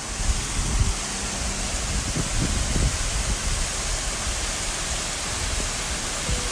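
Steady rushing of water, an even roar from low to high pitch with no break, like storm water pouring or running fast.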